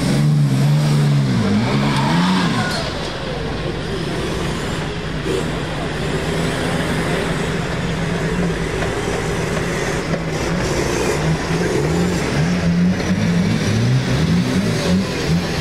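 Off-road 4x4's engine revving up and down in quick throttle blips, holding a steady pitch for several seconds in the middle, then blipping again near the end.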